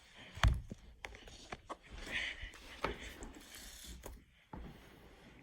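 Handling noises: one sharp knock about half a second in, then scattered soft clicks and taps and a brief hiss.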